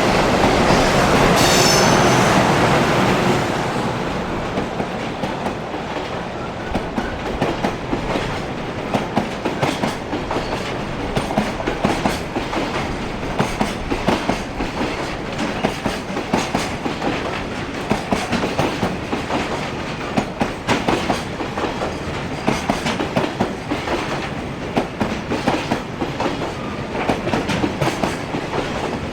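Container freight train passing close by. It is loudest in the first few seconds, then a long string of wagon wheels clacks over rail joints in quick clusters.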